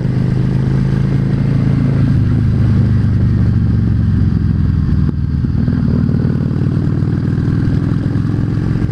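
Yamaha V Star 650's air-cooled V-twin engine running steadily as the motorcycle cruises on the highway, a low, even rumble.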